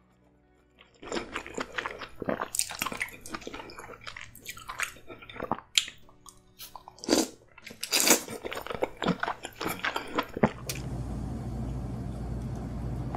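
A person chewing and biting into king crab meat dipped in a thick cheesy sauce, a dense run of sharp clicks and snaps. About ten and a half seconds in the eating stops and a steady low room hum takes over.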